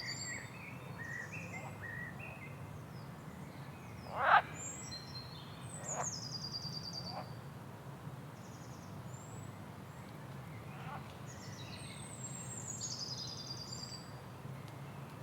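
Rainforest bird chorus: several birds calling, with high, descending whistled trills repeated a few times and one loud, short sweeping call about four seconds in, over a steady low hum.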